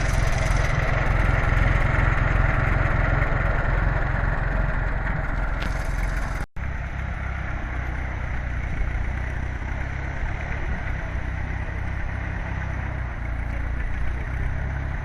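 Tractor engine running steadily, cut off for an instant about six and a half seconds in and then going on slightly quieter.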